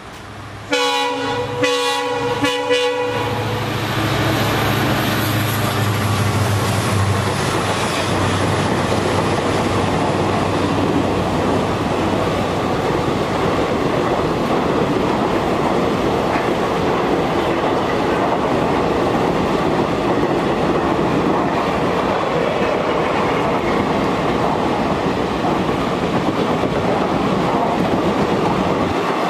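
Diesel locomotive sounding its horn in three short blasts about a second in, its engine running past for a few seconds, then a long passenger train's coaches rolling by with steady wheel rumble and clickety-clack over the rail joints.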